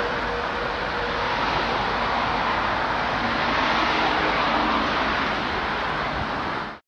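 Steady, loud noise of a Union Pacific diesel locomotive and its loaded rock train running on the track. The sound cuts off abruptly just before the end.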